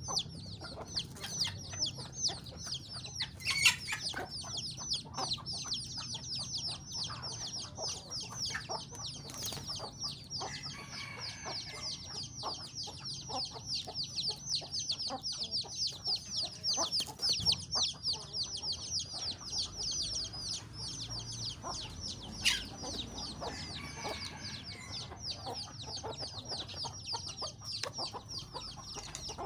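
Chickens calling: a dense, continuous stream of short, high, falling peeps, with scattered sharp clicks. The loudest click comes about three and a half seconds in.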